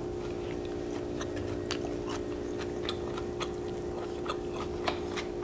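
A person chewing a mouthful of food with the mouth closed, making scattered faint wet clicks, over a steady low hum.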